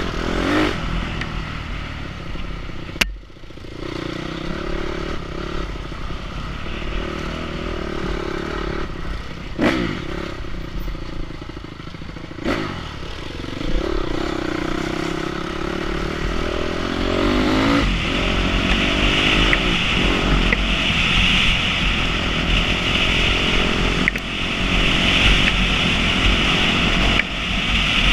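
Enduro motorcycle engine revving and easing off as speed changes, with three sharp knocks in the first half. A little past halfway it runs harder and louder, with a rushing hiss over the engine.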